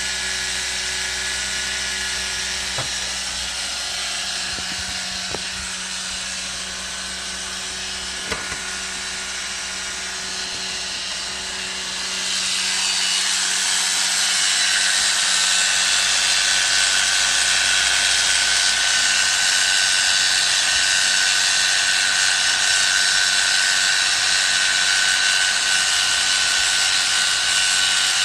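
A machine running with a steady whine made of several high tones over a hiss. About twelve seconds in it grows louder, and one high whining tone stands out.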